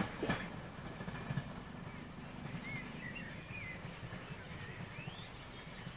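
Low rumble of a diesel train moving away down the line, slowly fading, with a few bird chirps in the middle.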